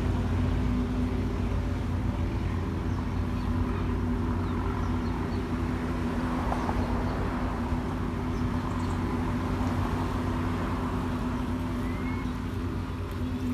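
Steady low engine hum of a motor vehicle running, with a few faint bird chirps over it.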